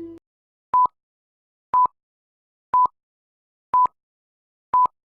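Countdown timer beeps: five short, identical electronic beeps at the same mid pitch, one a second, over otherwise silent audio, counting down to a start.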